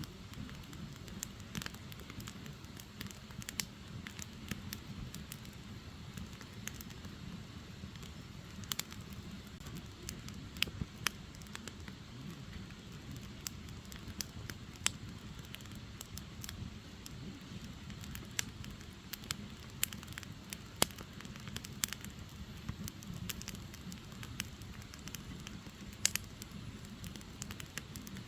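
Firewood logs burning in a wood fire: a steady low rumble of the flames with irregular sharp crackles and pops as the wood splits.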